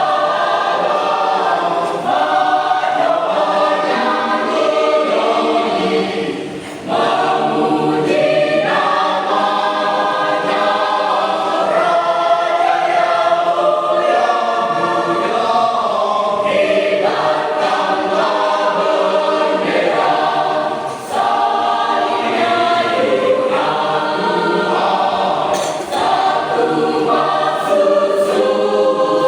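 Church choir singing, with short breaks between phrases about seven and twenty-one seconds in.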